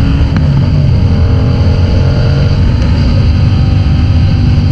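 Motorcycle engine running under way, its pitch rising slowly as it gains speed, with wind rushing over the microphone.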